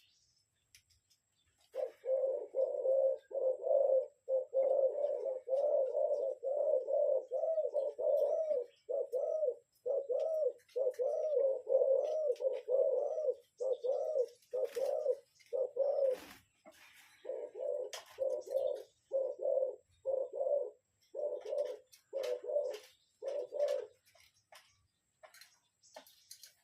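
Spotted dove cooing: a long run of rapid, evenly repeated low coo notes, about one and a half a second, with a brief break about two-thirds of the way through. Faint scattered clicks come through the coos.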